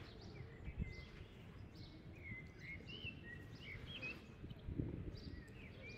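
Faint bird chirps, a series of short high calls during the first few seconds, over low background noise.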